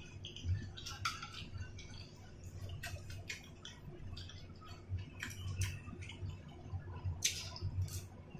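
Close mouth sounds of someone chewing boiled dumplings: irregular wet smacks and small clicks, with the odd light tap of chopsticks on a sauce bowl and a faint steady low hum beneath.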